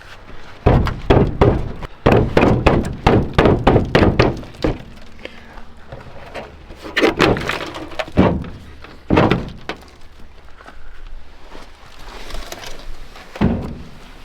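A quick run of knocks and thunks lasting about four seconds, then a few single heavy knocks spaced a second or more apart: parts being banged on and knocked loose during a truck teardown.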